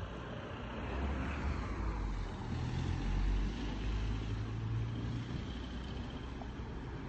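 Low rumble of a passing road vehicle, swelling toward the middle and easing off again.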